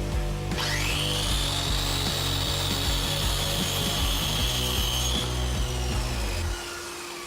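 An electric saw's motor spins up with a rising whine about half a second in, runs steadily while cutting wood, and winds down about five seconds in. Background music with a bass line plays throughout.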